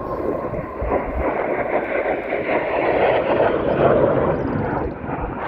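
An aircraft flying past at an airshow: a rushing engine noise that builds to a peak about four seconds in, then falls away.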